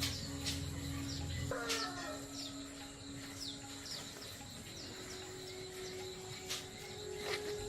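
Birds chirping in short, repeated high chirps, with one brief lower call about a second and a half in and a few sharp clicks; a low hum cuts off at about the same time as the call.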